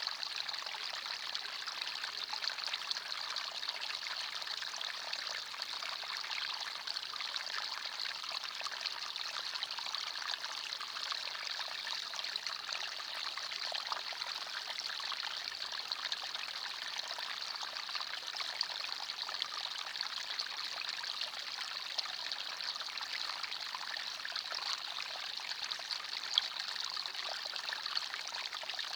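Forest stream flowing: a steady, even trickling and babbling of water, bright and high with little low rumble. One brief, sharper tick stands out near the end.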